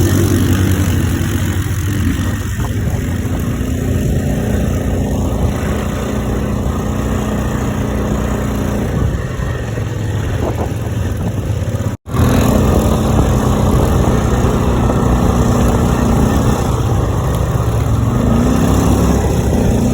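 Quad bike engine running, its pitch holding mostly steady, with a brief break about twelve seconds in.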